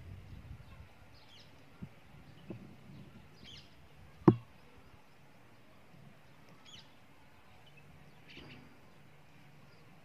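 Faint short chirps of small birds every few seconds over a quiet outdoor background, with one sharp knock about four seconds in, the loudest sound, and two fainter clicks just before it.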